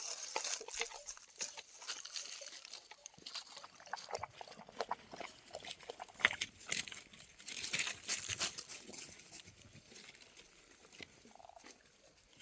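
Livestock moving and handling close by, with many small clicks, knocks and rustles that come in clusters and fade near the end.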